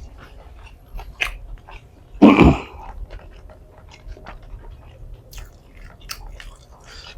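Close-up eating sounds of someone chewing a rice meal: many small, scattered wet mouth clicks. A short, loud voiced sound a little over two seconds in.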